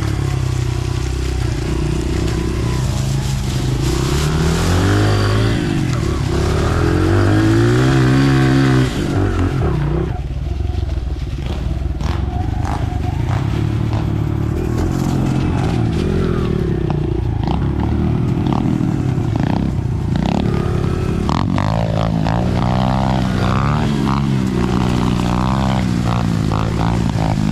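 Dirt bike engine revving hard under load on a run up a hill, with the pitch climbing to its loudest. About nine seconds in it drops off throttle suddenly, then keeps running with revs rising and falling.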